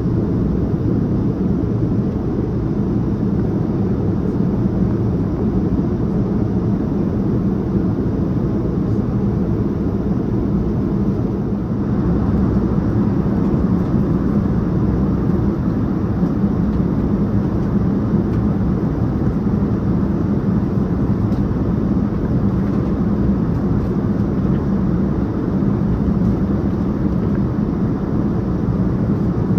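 Boeing 787-9 cabin noise in flight: a steady low rush of engine and airflow noise with a constant low hum, a little louder from about twelve seconds in.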